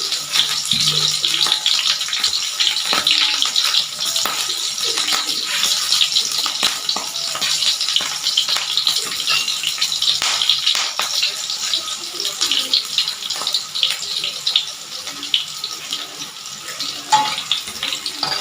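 Sambal ingredients (garlic, shallots, chillies and tomato) frying in hot oil in a pan: a steady sizzle full of fine crackling, easing slightly near the end.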